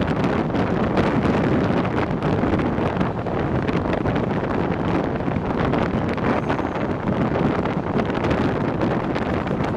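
Passenger train running steadily, heard from on board: a continuous rumble of wheels on rails, with wind buffeting the microphone.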